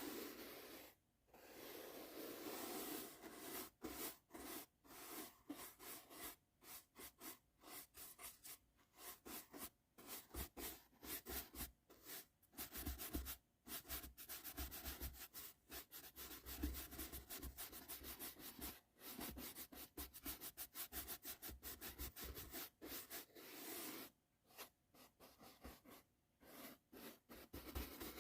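Brush bristles stroking across the microphone in many quick, soft strokes, with a few brief pauses.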